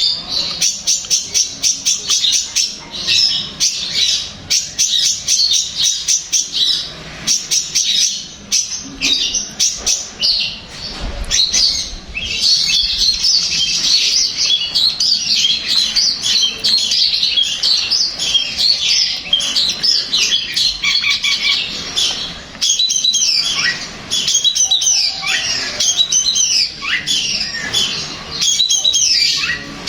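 Long-tailed shrike (cendet) singing a fast, continuous run of chirps mixed with short harsh squawking notes, in full song (gacor).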